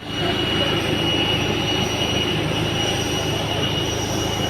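Steady jet airliner noise: a continuous rushing hum with a high-pitched whine held on one note.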